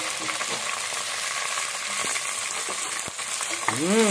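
Small shrimp sizzling in hot garlic oil in an aluminium pot, stirred with chopsticks, with a couple of light clicks. Near the end a short pitched sound rises and falls over the sizzle.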